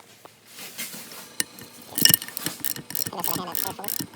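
Ratchet wrench clicking in quick repeated strokes, starting about halfway in, as bolts are worked loose during the teardown of a turbocharger.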